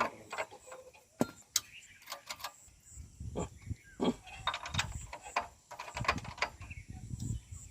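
Irregular sharp clicks and knocks with uneven low thuds from a small single-cylinder diesel water-pump engine being turned over by hand, not yet running.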